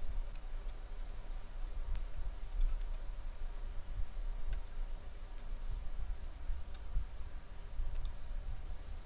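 Scattered light clicks and ticks from small repair tools on a phone logic board, over a steady low hum, as a shorted capacitor on the iPhone XS Max's VDD_MAIN line is removed.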